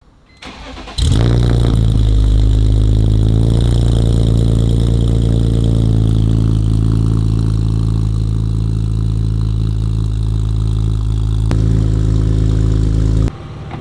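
BMW E46 330i's M54 inline-six, straight-through with catless headers and a muffler delete, cranks briefly and catches about a second in with a flare of revs. It then settles to a steady idle. The sound cuts off abruptly near the end.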